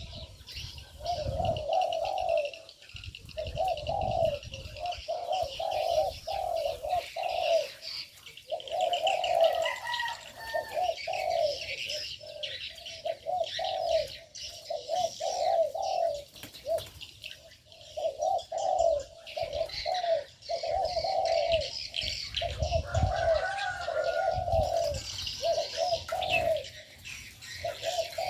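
Doves cooing over and over in short repeated phrases, with small birds chirping rapidly and continuously in the aviary.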